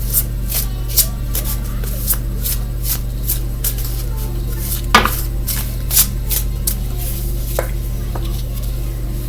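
Tarot cards being handled and set down on a table: a run of light clicks and taps, two or three a second, with a sharper knock about five seconds in, over a steady low electrical hum.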